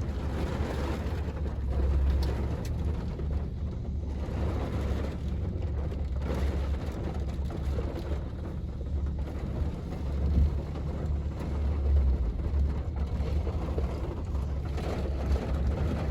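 Thunderstorm wind buffeting the microphone as a fluctuating low rumble over a steady rush of rain, swelling and easing every few seconds.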